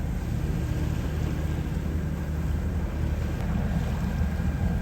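A sailboat's engine running steadily under way, a constant low hum with a hiss of wind and water over it.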